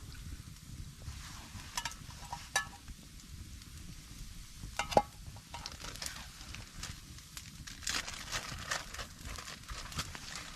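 A few sharp clicks that ring briefly, the loudest about five seconds in, with light rustling and crackling later on, over a steady low rumble.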